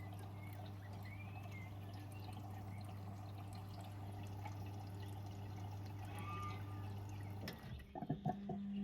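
Beko washing machine filling with water: water pours and trickles into the drum over a steady low hum. The hum cuts off about seven and a half seconds in, followed by a few clicks.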